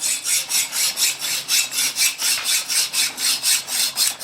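Hand hacksaw cutting through metal, worked in fast, even strokes at about four a second.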